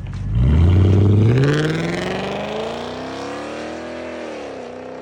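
Audi S6 4.2 V8 with its catalytic converters removed, accelerating hard from idle. The revs climb steadily, then dip and rise again near the end as it shifts up a gear, and the sound fades as it draws away.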